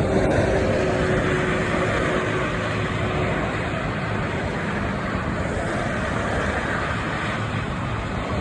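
Street traffic: vehicle engines and tyre noise, steady throughout, with a faint steady tone in the first few seconds.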